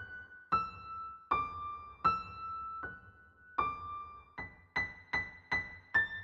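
Background music: a slow melody of single piano-like notes, each struck sharply and left to fade, about one or two notes a second.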